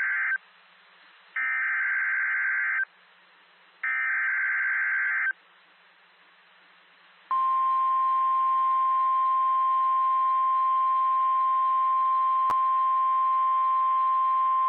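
NOAA Weather Radio alert sequence from station WXK46: the SAME digital header sounds as three short, shrill data bursts about a second apart. From about seven seconds in comes the steady 1050 Hz warning alarm tone, the signal that a new warning message is about to follow. There is a single sharp click partway through the tone.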